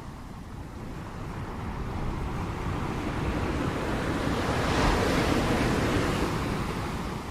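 Ocean surf: one wave builds into a rushing wash that peaks about five seconds in, then eases off, over a steady low rumble.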